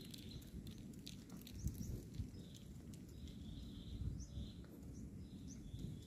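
Birds chirping: a short call repeated about once a second, faint over a low rumble.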